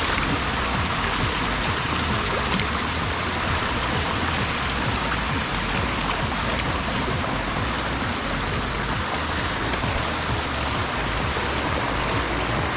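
Clear mountain stream running over rocks: a steady, even rush of water.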